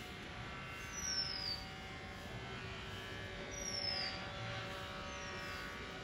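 Birds calling with short, high whistles that slide downward, about four in a few seconds. A steady hum of several tones runs underneath.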